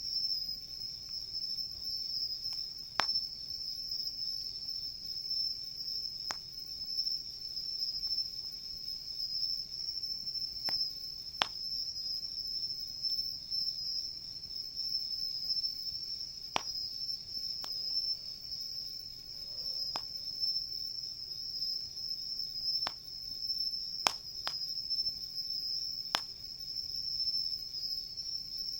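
Insects calling in a steady high-pitched trill without pause, with a wood campfire crackling and giving about ten sharp pops at irregular intervals.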